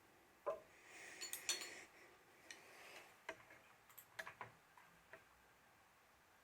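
A handful of light clicks and taps from small hard objects being handled, with a brief soft rustle near the start, then near silence.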